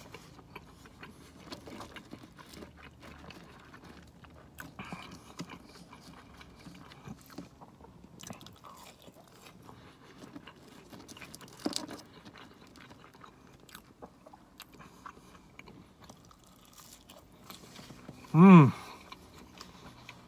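Close-up chewing and crunching of a bite of crispy fried buffalo chicken sandwich with bacon: soft wet mouth sounds and small crunches, with a sharper crunch about halfway through. Near the end comes a short, loud hum from the eater that falls in pitch.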